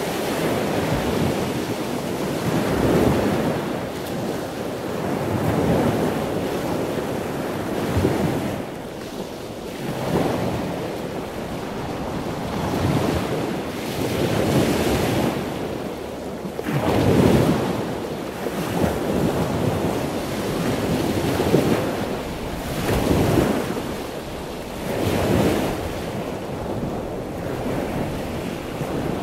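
Ocean surf washing in and out, a swell of rushing noise every two to three seconds.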